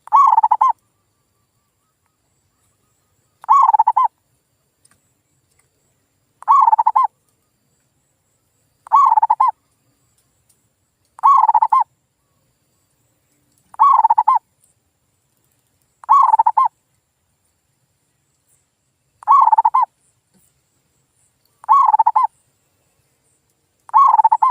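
Male zebra dove (perkutut) cooing, with a short, clear call phrase repeated about every two and a half seconds, ten times.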